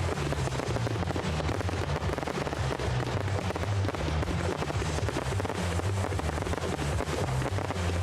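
Fireworks display crackling and popping densely and without a break, over loud music with a bass line changing every half second or so.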